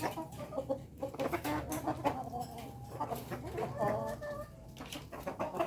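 A flock of kampung chickens clucking and calling over one another in a small coop, many short overlapping calls with scattered light taps and pecks.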